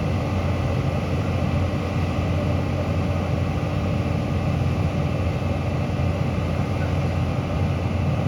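Diesel engine of heavy construction machinery running steadily, a constant low rumble with a steady hum.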